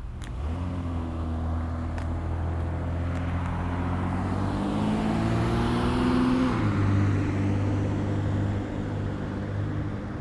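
A motor vehicle accelerating past. Its engine note climbs steadily and drops abruptly about two-thirds of the way through as it shifts gear, with road noise swelling as it goes by.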